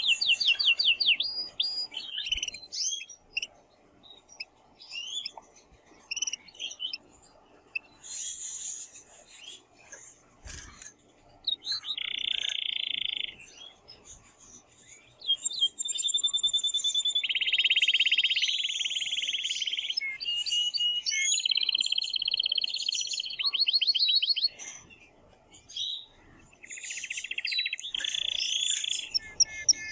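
Male canary singing: rapid high trills and long, even rolling phrases, with a quieter stretch of scattered short chirps in the first third before the song builds again.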